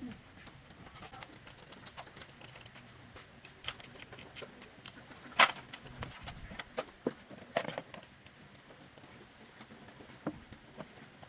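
Scattered short clicks and knocks of hand work, irregular and a few seconds apart, the sharpest about five seconds in, over a faint steady background.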